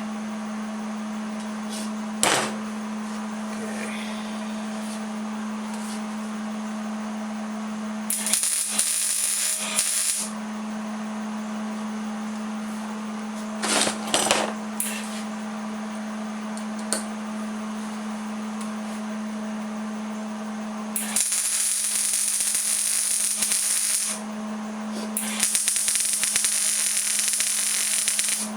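Electric arc welding tacking steel table legs on, in bursts of crackling hiss: two short tacks around the middle, then two longer welds of about three seconds each near the end. A single sharp knock comes about two seconds in.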